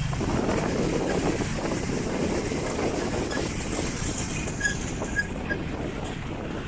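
Wind buffeting the microphone over street and vehicle noise, with a dense steady rush and a few faint short chirps a little past halfway.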